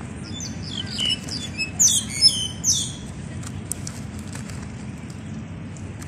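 Birds chirping and whistling in a quick run of high, varied calls, loudest around two seconds in, then only a few faint ticks over a steady low background noise.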